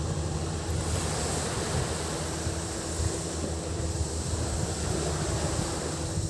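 Waves washing onto the beach in a steady surf, with a faint, steady high drone of cicadas. A steady low hum runs underneath.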